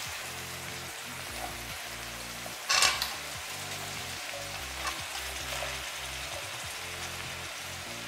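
Green peas and onion frying in hot oil in a kadhai: a steady sizzle, with a spatula stirring. About three seconds in there is a short, loud burst of sizzle and clatter as boiled potato chunks are tipped into the pan.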